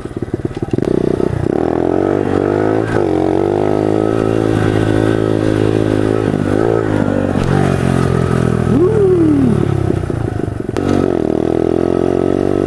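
Pit bike engine running under throttle as it is ridden, its pitch rising and falling as it revs up and eases off. It sounds choppy and uneven for about the first second, then runs steadily.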